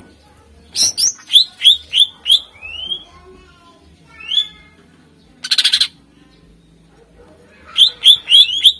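Green leafbird (cucak ijo) singing loudly in quick runs of sharp, whistled notes that swoop up and down, with a short buzzy rattle about halfway through.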